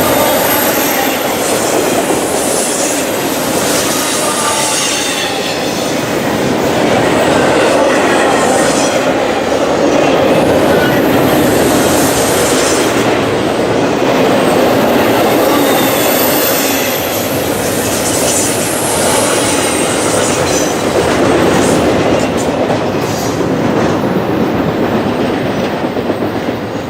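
Freight train rolling past at close range, loud and steady, its wheels clattering on the rails with intermittent high-pitched wheel squeal.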